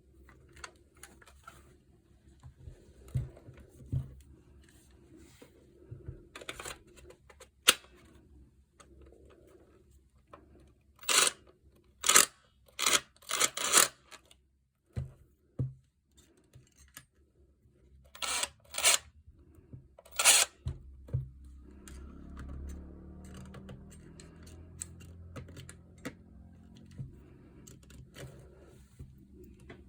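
Hands handling tools and parts on a bench: scattered sharp clicks and knocks, with a quick run of louder clicks between about 11 and 21 seconds in, then soft scraping.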